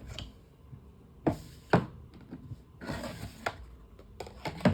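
Hard plastic knocks and clicks of fan parts being handled: two sharp knocks about a second in, a short clatter around the middle and a run of quick clicks near the end.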